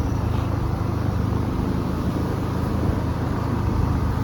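A road vehicle's engine running steadily with a low, even hum.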